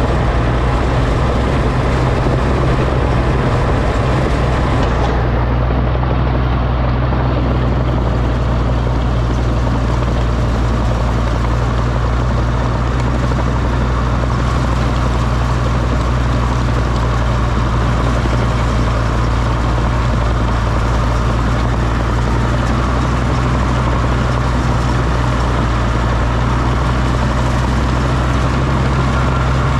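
Oliver OC-6 crawler tractor's engine running at a steady, unchanging speed.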